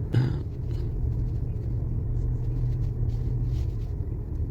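DS7 Crossback on the move over an uneven road, heard from inside the cabin: a steady low road and tyre rumble, with one sharp knock about a quarter of a second in.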